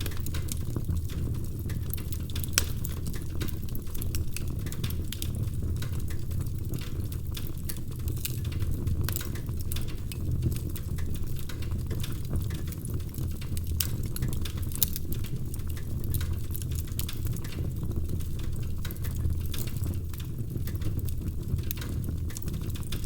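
Wood fire crackling, with frequent small irregular pops and snaps over a steady low rumble.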